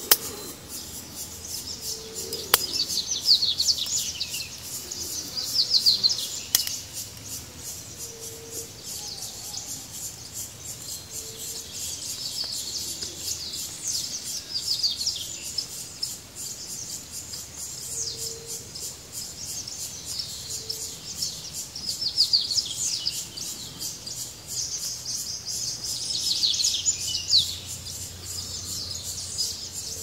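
Wild birds singing: bursts of high, rapid, falling chirps repeated every few seconds, with short low whistled notes here and there. Two sharp clicks sound in the first few seconds.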